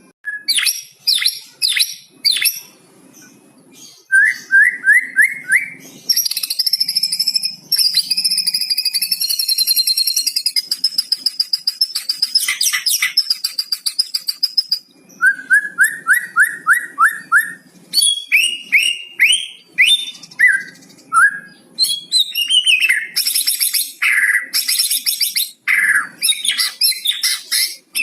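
White-rumped shama singing a varied, loud song of sharp quick whistles. It gives two runs of fast identical repeated notes, one about four seconds in and one about fifteen seconds in, and a long high warbled phrase in between. Its song is filled with phrases learned from a cucak cungkok.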